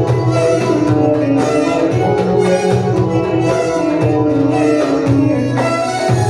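Arabic traditional music: a melody carried by sustained pitched instruments over a steady hand-drum rhythm.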